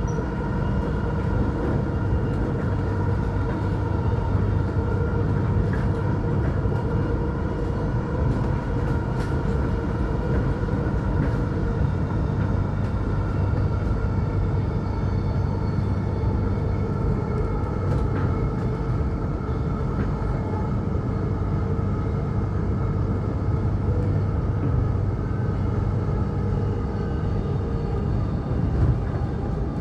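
Electric suburban train running between stations, heard from inside the carriage: a continuous rumble of wheels on the track with a steady hum of a few held tones.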